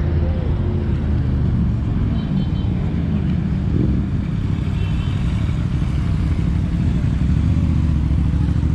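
Motorcycle engines running as a group of bikes rides in and arrives, a steady low rumble with a brief change in engine pitch near the start.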